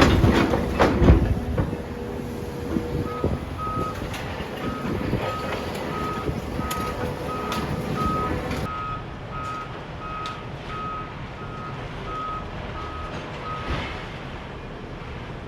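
Crash and clatter of demolition rubble in the first second or so. Then a machine's reversing alarm beeps steadily at about two beeps a second over a low machinery rumble, pausing near the end.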